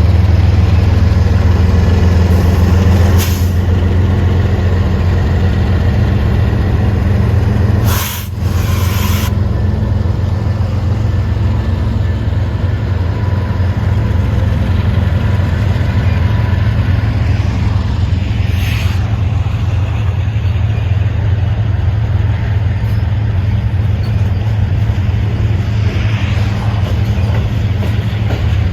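Diesel freight locomotives running with a steady low engine drone, broken by several short hisses, the loudest about eight seconds in.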